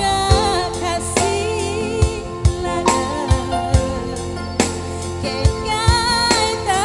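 Live band music with a singer: a wavering sung melody over sustained bass notes and a steady drum beat.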